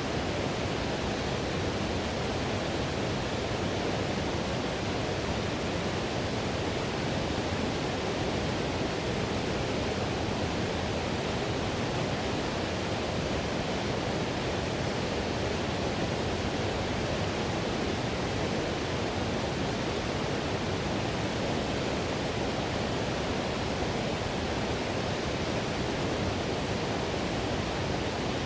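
Whitewater river rushing steadily, a constant even roar of fast-flowing water over rapids with no breaks or changes.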